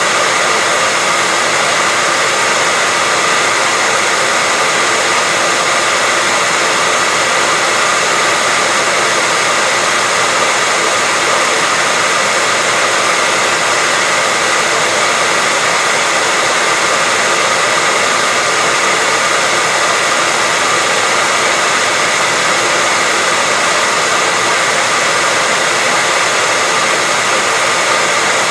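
Hair dryer running steadily: loud, even rushing of air from its fan with a faint steady whine.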